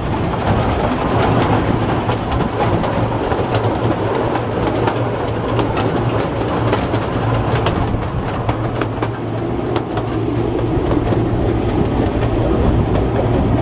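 Kurobe Gorge Railway's narrow-gauge trolley train running, heard from on board: a steady rumble of wheels on rail with scattered sharp clicks.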